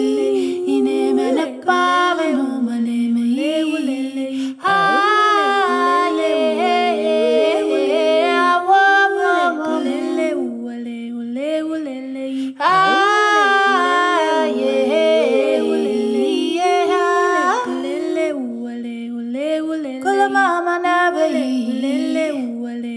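A cappella singing: several voices in close harmony hold and bend a repeating chant-like melody, with a fresh, louder phrase starting about five seconds in and again about thirteen seconds in.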